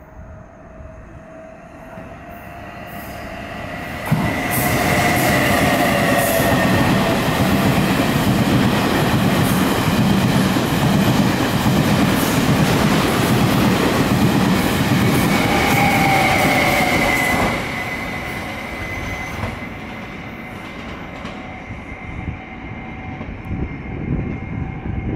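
Passenger train passing close through a station: a rumble builds, then a loud run of wheel noise with rapid clacking and high squealing tones, which drops off sharply about two-thirds of the way through, leaving a quieter rail rumble.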